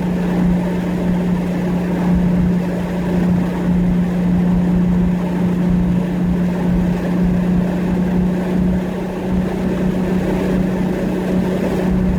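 Nissan Skyline GT-R's single-turbo RB26DETT straight-six cruising at a steady engine speed, heard from inside the cabin with the windows down, with road and wind noise. It is kept at light load, off boost, while running on an untuned base map.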